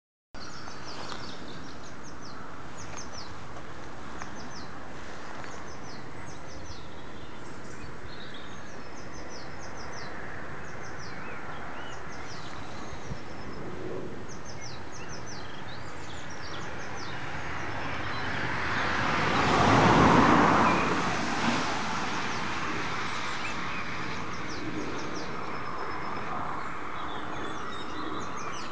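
Small birds repeatedly chirping in short, high phrases over a steady outdoor background. About two-thirds of the way through, a passing vehicle swells up and fades away, the loudest sound here.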